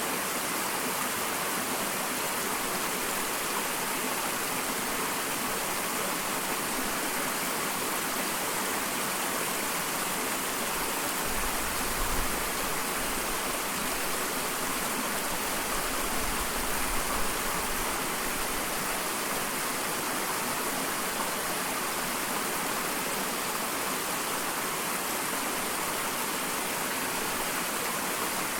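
Small waterfall: water falling and rushing in a steady, even stream, with a couple of brief low rumbles near the middle.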